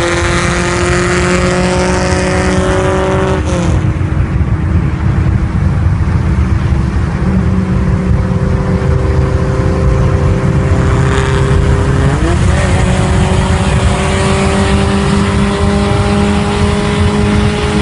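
Tofaş Doğan S car engine running under way, a steady engine note over road noise. Its pitch drops about 3.5 seconds in and climbs again about 12 seconds in as the revs change.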